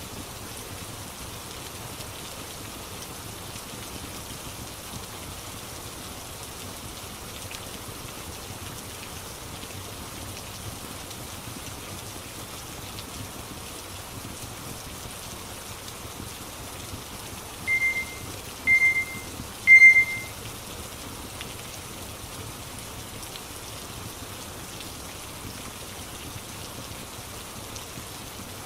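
Steady rain ambience, with three short high electronic beeps about a second apart, each louder than the last, two-thirds of the way in: a pomodoro timer signalling the start of a study session.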